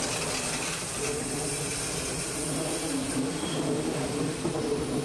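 Locomotive-hauled passenger train passing close by at speed: a steady rumble and rattle of wheels on the rails as the locomotive and then its coaches go by.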